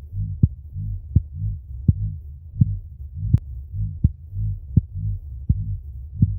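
Low boom sound effect: a deep, pulsing rumble with a sharp thud about every three-quarters of a second, in a steady heartbeat-like rhythm.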